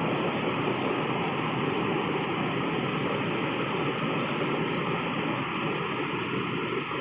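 Heavy tropical rain pouring down steadily, an even hiss of rain.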